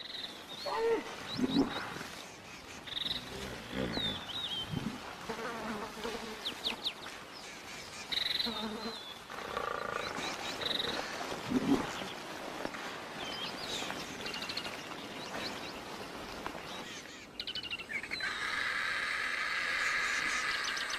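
Wildlife ambience of scattered short animal and bird calls, some high chirps and some lower calls. From about eighteen seconds in, a steady insect buzzing takes over.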